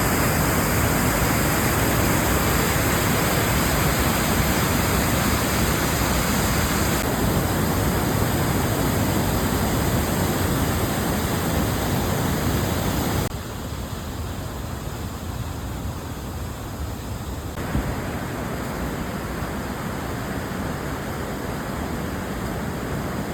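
A 20-foot waterfall rushing: a steady, dense roar of falling water. It drops abruptly in level a little past halfway and shifts again a few seconds later.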